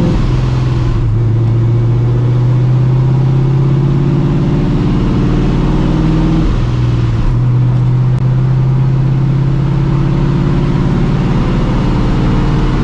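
Cammed, Procharger-supercharged 5.4-litre V8 of a 1999 Mustang GT running at a steady cruise, heard from inside the car. The engine note steps down about a second in and dips again around six and a half seconds, then holds steady.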